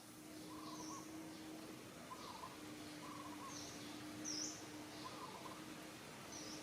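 Birds chirping in short calls about once a second, the loudest about four seconds in, over a faint steady low hum and outdoor background noise.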